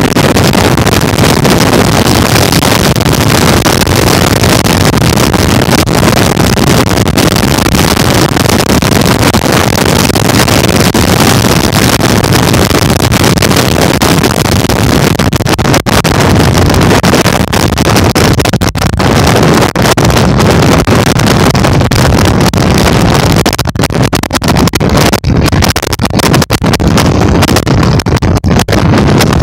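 Heavy wind rushing over the microphone of a moving bike, a loud, steady roar that flutters and briefly drops out several times near the end.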